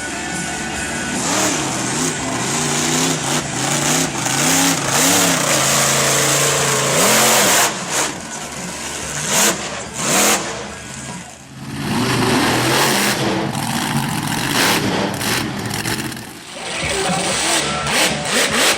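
Monster truck engines revving hard, the pitch rising and falling over and over, with loud broad noise throughout and a few sudden changes in the sound.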